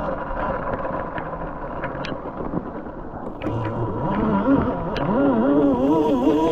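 Beta Explorer electric dirt bike running with a motor whine over a steady high tone. From about four seconds in, the whine rises and falls in pitch with the throttle, with scattered sharp clicks and ticks.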